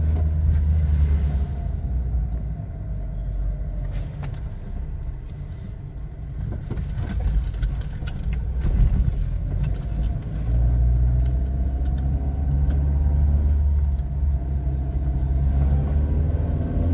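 Inside a moving Volkswagen compact car, with steady road and engine rumble. Over small bumps a run of light sharp knocks, a 'tec, tec, tec' rattle, comes from the front suspension or steering, mostly in the middle of the stretch. It is typical of a worn tie rod end, stabilizer link or steering axial rod.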